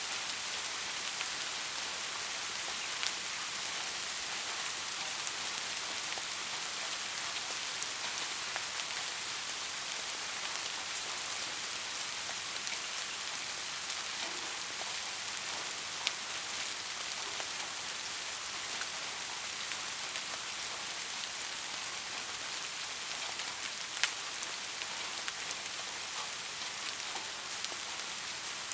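Steady rain falling, an even hiss with scattered single drips clicking now and then, the sharpest about 16 and 24 seconds in.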